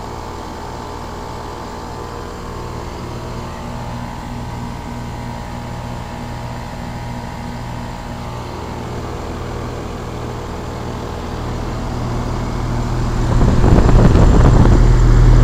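2001 Trane XE1000 Weathertron heat pump's outdoor unit running in heating mode, compressor and condenser fan giving a steady hum with a few fixed tones, its outdoor coil frosting over in the cold. Near the end a much louder rushing noise swells in over the hum.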